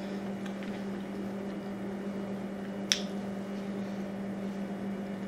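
A person chewing a bacon cheeseburger, making soft, wet mouth sounds, with one sharp click about three seconds in, over a steady low hum.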